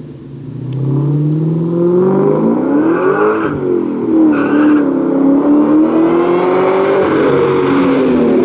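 Supercharged V8 of a 2004 SVT Cobra running through Borla Stinger mufflers and an off-road X-pipe, accelerating. The engine pitch climbs, drops sharply about three and a half seconds in, then climbs again and holds high, like a gear change under load.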